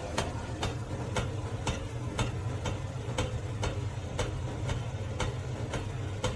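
Even ticking, about two clicks a second, over a steady low hum.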